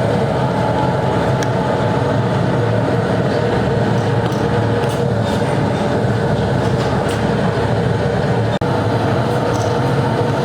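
Steady drone of running workshop machinery, with a few faint ticks and clinks over it.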